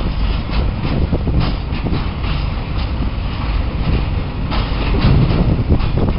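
Train running along the track: a steady loud rumble with irregular clicks and knocks of wheels over the rails.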